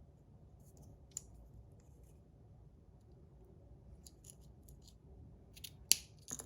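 Faint, scattered clicks from handling a 3D-printed slider fidget: a lone click about a second in, a short run of light clicks a few seconds later, and a few sharper clicks near the end.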